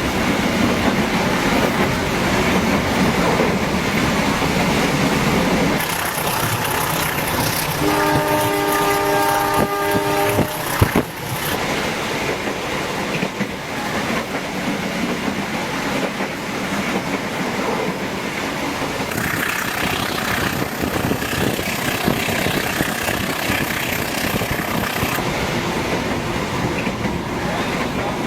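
A passenger train running along the track, with a steady rumble and wheel noise on the rails. About eight seconds in, the train's horn sounds one held, chord-like blast lasting about two seconds, followed shortly by a single sharp knock.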